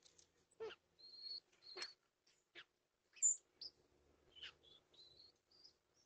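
Birds calling: a string of short high chirps and thin whistles, the loudest a sharp high chirp about three seconds in, mixed with a few brief scratchy rasps.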